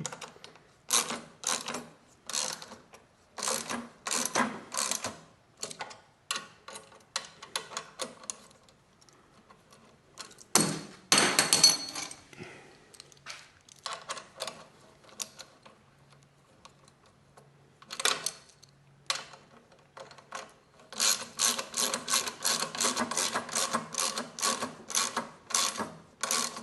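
Ratchet wrench clicking in short runs as bolts on the machine's frame are tightened, with a louder metallic clatter about eleven seconds in.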